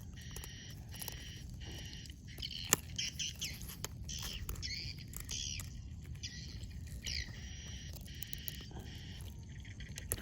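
Birds calling over and over, short high chirping calls and falling squawks, over a low steady rumble. A single sharp click comes about two and a half seconds in.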